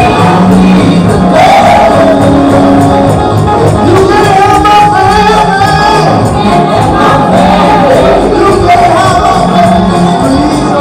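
Gospel music with singing, loud and continuous, with a steady beat and a tambourine.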